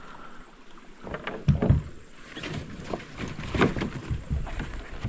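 Irregular knocks and clatter of fishing gear being fitted onto a kayak, with the loudest knocks about a second and a half in and again past three and a half seconds.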